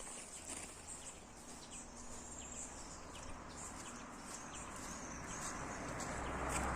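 Faint outdoor ambience with scattered short, high chirps of birds over a low steady rumble, growing slightly louder near the end.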